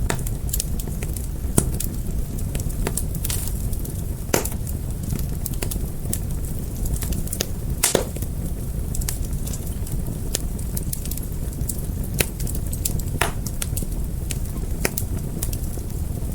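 Wood fire crackling: a steady low rush of flames with frequent irregular sharp pops and snaps, a handful of them standing out louder than the rest.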